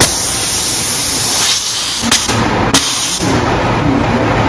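Model train layout with a steady loud hiss, like a locomotive sound system's steam or air-release effect, broken by two sharp clicks about two and three seconds in.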